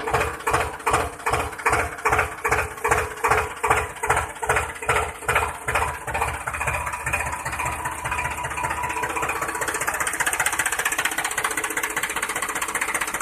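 Engine chugging in even beats, about three a second at first, that speed up and merge into a steady running sound after about eight seconds.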